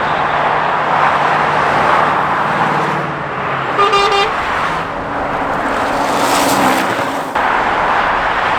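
Lorries and cars passing on a dual carriageway, with steady tyre and engine noise, and a short vehicle horn toot about four seconds in.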